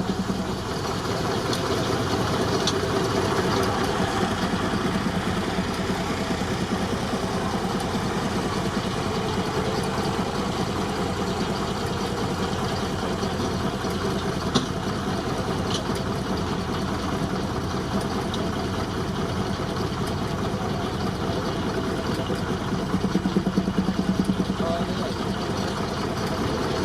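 Baker 19-65 Uniflow steam traction engine running steadily under belt load, driving a sawmill, with a fast, even beat and a few sharp clicks.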